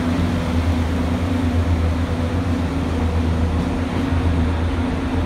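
Steady running noise of the Durango & Silverton narrow-gauge passenger train rolling along the track, heard from an open car: an even low hum with no distinct wheel beats.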